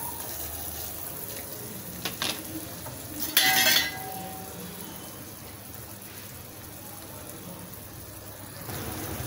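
Boiled eggs frying in oil and masala over a low gas flame, a steady quiet sizzle. A brief loud clatter comes about three and a half seconds in.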